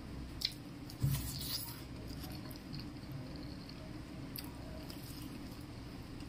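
Close-up eating sounds: a person chewing with soft wet mouth noises while handling rice and chicken liver on a plate. A few sharp clicks come through, with a louder crackly burst about a second in.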